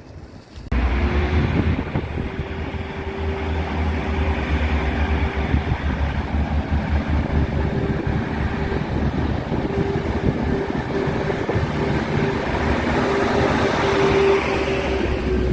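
A train running through the station with a steady humming tone, slowly getting louder, over heavy wind rumble on the phone's microphone. The sound starts abruptly just under a second in.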